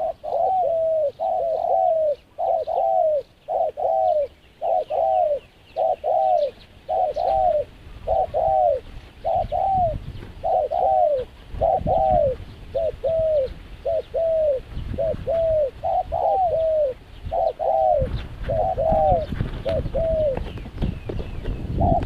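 A dove cooing over and over, about one arching coo a second. A low rumble comes in from about a third of the way through.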